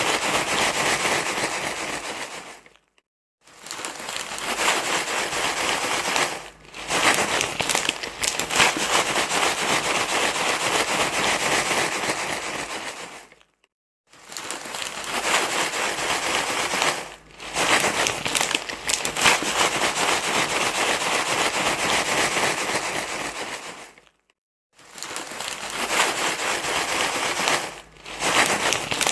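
Continuous loud rustling and crinkling played for soothing a crying baby, repeating as a loop that drops to silence for about half a second roughly every ten seconds, with brief dips in between.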